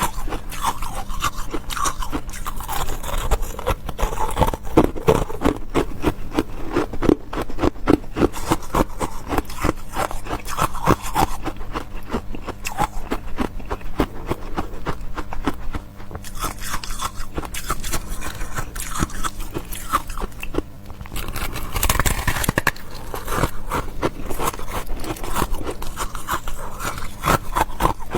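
Close-miked biting and chewing of ice: a dense run of crisp crunches and crackles, thinning briefly a couple of times.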